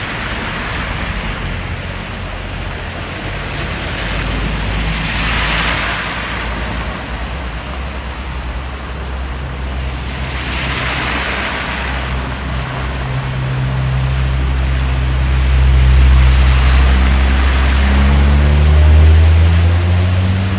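An engine running steadily at low revs, with two swells of rushing water noise a few seconds apart. The engine grows louder and its note rises in the last few seconds as it pulls away through the flood water.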